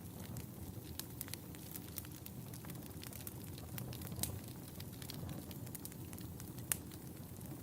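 Wood fire crackling in a fireplace: a steady low rush of flame with irregular sharp pops and snaps, two louder pops about four seconds in and near the end.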